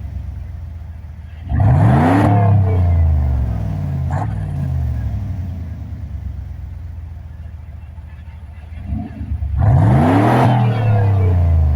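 Pontiac Firebird 5.0 V8 through an OBX racing exhaust, idling with a low rumble and revved sharply twice, about a second and a half in and near the end, each rev falling back slowly to idle.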